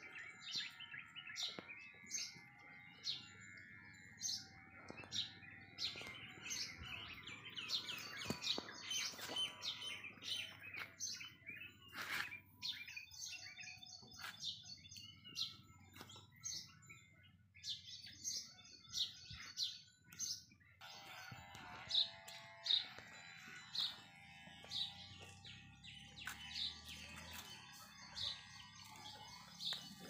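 Small birds chirping and tweeting in many short, high calls, over a faint background.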